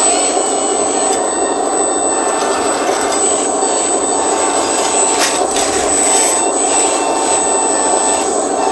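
Electric hydraulic pump and drive motors of a 1:14 scale RC skid steer loader running steadily: a dense mechanical buzz with a thin, high steady whine over it.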